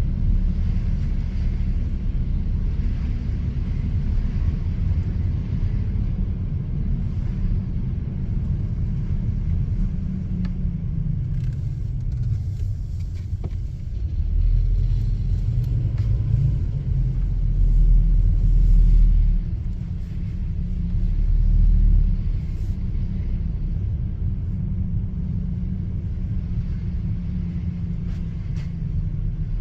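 Car driving, a steady low rumble of road and engine noise that swells louder twice in the middle.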